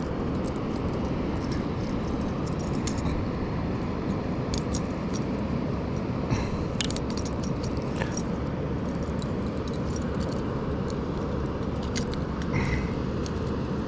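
Metal lure hooks clicking and jangling now and then as a hooked bass is being unhooked, over a steady low rumble.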